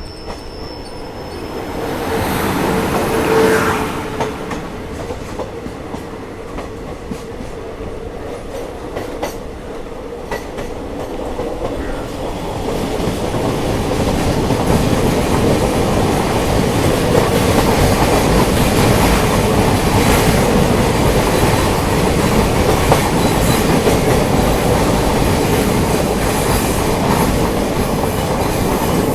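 The 12614 Wodeyar Superfast Express running on the line: steady rumble of wheels on rail with clickety-clack of rail joints. A steady wheel squeal shows in the first few seconds, and the running grows louder about halfway through and stays loud.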